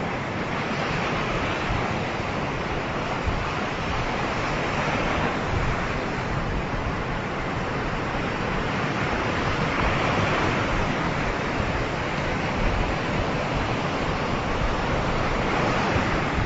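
Ocean surf: a continuous wash of waves breaking on a beach, swelling and easing as each wave comes in and runs out.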